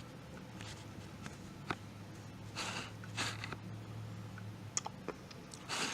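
Faint steady low hum with a few soft clicks and short rustles.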